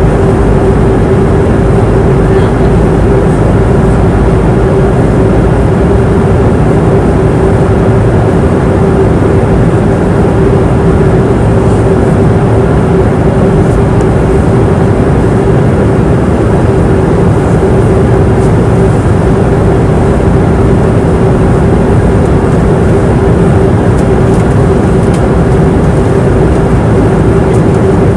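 Passenger airplane cabin noise in flight: a steady rush of air and engine noise with one constant held tone running through it.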